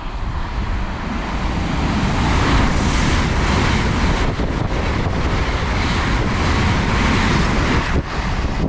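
LNER Class 801 Azuma electric train passing through at speed: a loud rushing noise that builds over the first two seconds, holds steady, and drops off sharply near the end as the train clears.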